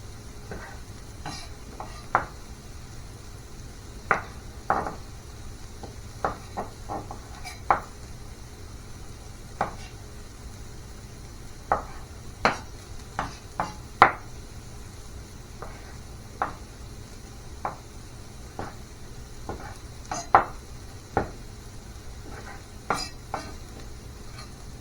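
A utensil knocking and scraping against a pan in irregular, sharp clacks a second or so apart, over a faint steady sizzle.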